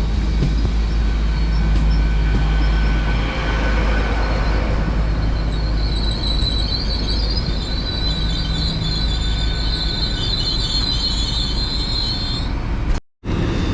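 An LNER Azuma (Class 800) train running past the platform with a heavy low rumble. About halfway through a high-pitched squeal from the wheels sets in and holds for several seconds, then everything cuts off suddenly just before the end.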